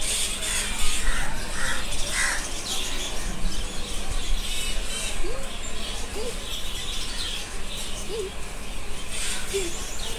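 Birds chirping and calling, crows among them, over a steady background din of a busy market. A few short rising squeaks come in the second half.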